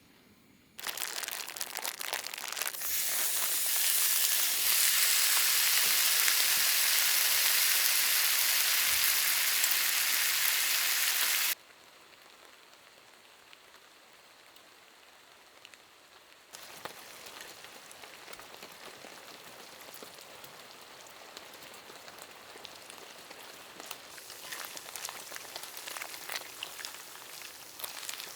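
Rain falling: a heavy, even hiss that starts abruptly about a second in and stops just as abruptly near the middle, leaving a faint hiss, then lighter rain with scattered drop ticks for the rest.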